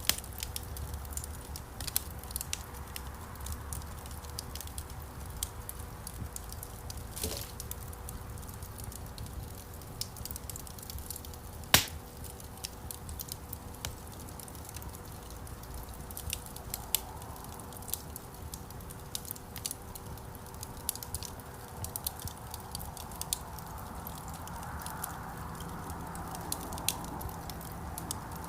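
Wood fire burning in a fireplace: irregular sharp crackles and snaps over a low rumble of flame, with one loud pop about twelve seconds in.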